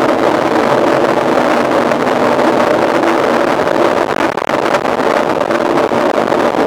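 Mountain bike ridden at speed: wind rushing over the microphone over a steady hum of tyres and drivetrain, with a brief drop in level about four and a half seconds in.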